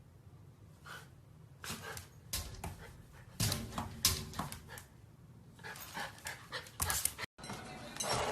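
Golden retriever puppy panting in quick, irregular breaths.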